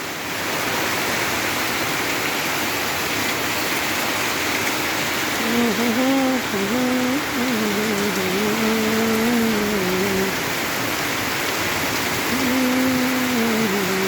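Steady rain falling, an even hiss. About five seconds in, a voice hums a slow, wandering tune over it for several seconds, and hums again near the end.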